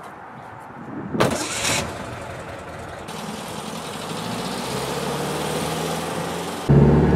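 A car engine starts with a short loud burst, then runs steadily and grows slowly louder, jumping abruptly to a much louder, deeper engine sound near the end.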